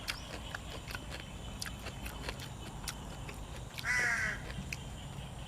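Close-up chewing and crunching of food, many small crisp clicks in quick succession, as in a mukbang of cuttlefish with raw vegetables. About four seconds in, one short harsh call cuts in over it.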